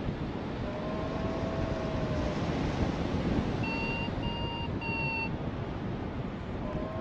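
Strong wind rushing over the microphone in flight. Over it, a paragliding variometer gives a long low tone that slides slowly in pitch, then three short beeps around the middle, and the long tone starts again near the end.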